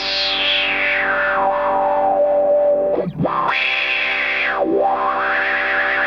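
Electric guitar played through a Madbean Drunken Dragon overdrive pedal, a Lovepedal Eternity clone, with held, distorted notes. A bright tone sweeps down and back up over them, and the notes break off briefly about three seconds in before being played again.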